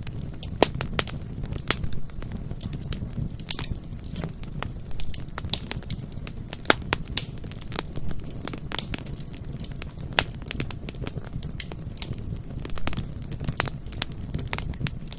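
Bonfire burning, with irregular sharp crackles and pops from the wood over a steady low rumble of the flames.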